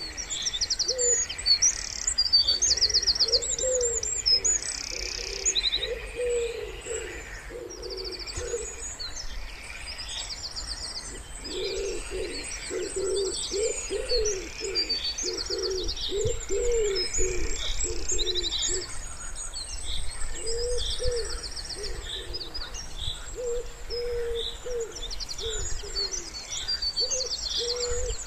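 Wood pigeon cooing in repeated low phrases, most densely about halfway through. Several small songbirds chirp and trill high above the cooing.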